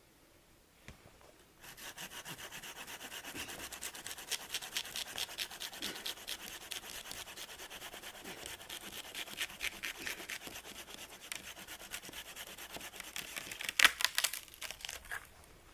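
Hand saw cutting through a dead tree, steady back-and-forth strokes starting about a second and a half in. A few loud sharp cracks come near the end.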